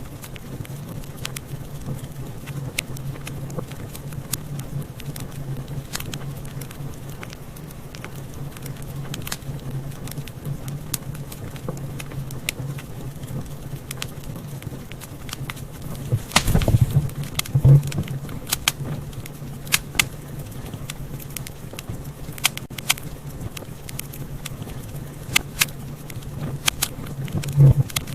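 Fireplace fire crackling: sharp pops and snaps scattered over a steady low rumble of flames. The pops come thicker about sixteen seconds in and again near the end.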